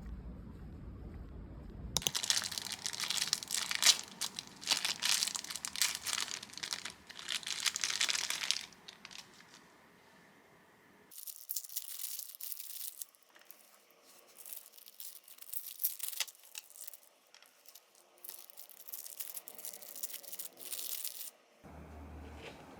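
Close-up crinkling and tearing of packaging, dense and continuous for about six seconds, then after a short pause more scattered crinkling for about ten seconds.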